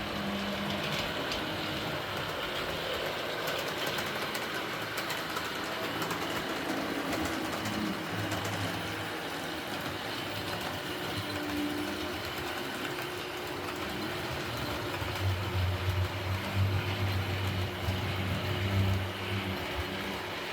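HO scale model train running on its track: a small electric motor whirring steadily with many fine clicks from the wheels on the rails, and a low hum that grows louder for a few seconds near the end.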